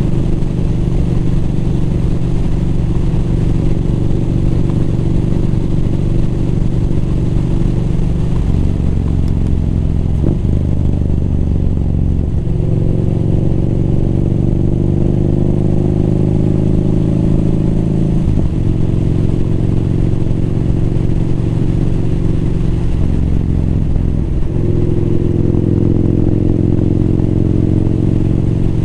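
Motorcycle engine running under way. Its note dips briefly several times, then climbs steadily again between the dips.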